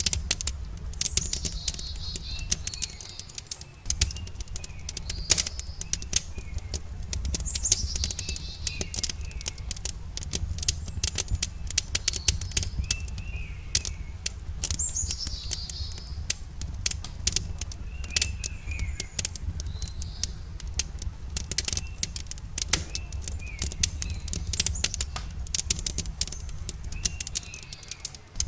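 Campfire crackling with frequent sharp pops and snaps over a low steady rumble, while birds call: short chirps repeating every second or two, and three high calls that fall in pitch.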